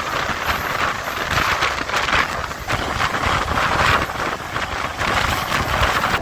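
MEMU electric train running along the track, a steady loud rushing noise over a low rumble that swells and fades every second or so.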